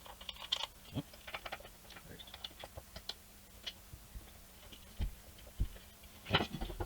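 Irregular light clicks and taps of small metal parts and tools being handled on a bench, with two dull bumps about five seconds in.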